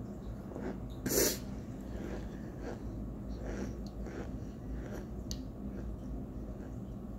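Chewing and crunching a mouthful of homemade cornstarch chunks, a run of soft irregular crunches, with one short, loud burst of breath like a sneeze about a second in.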